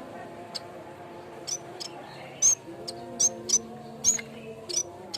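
Cikrak bambu (yellow-bellied warbler) calling: short, sharp, high chip notes repeated irregularly, about two a second, over faint steady low tones.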